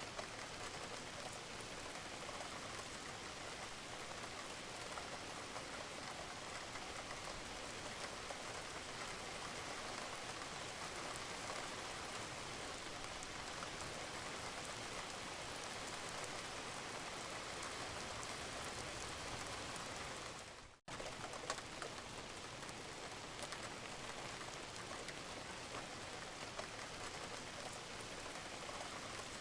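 Steady rain falling on a roof, with dripping water. About two-thirds of the way through, the sound cuts out for a split second and comes straight back.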